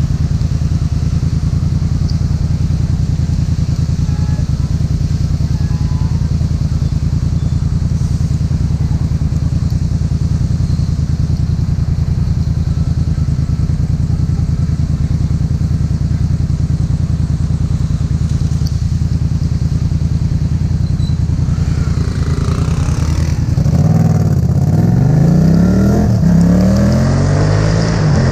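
Yamaha MT-07's parallel-twin engine running steadily while riding. About three-quarters of the way through, the revs climb and drop several times as the bike accelerates through the gears.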